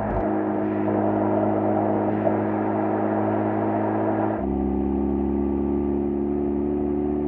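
Exhaust of an FD3S Mazda RX-7's twin-rotor turbo rotary engine running steadily at low revs, heard close up at the stock muffler. Its note changes abruptly about four seconds in, the higher part dropping away and a deeper hum taking over.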